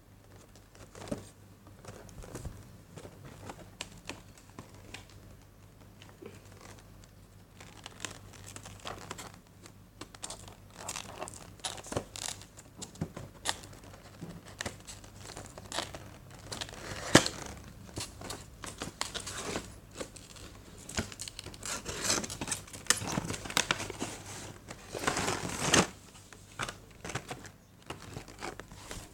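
Packaging of a model airplane being handled and opened: irregular crinkling, rustling and tearing with scattered clicks and knocks. It is sparse at first and gets busier and louder partway through, with one sharp click standing out.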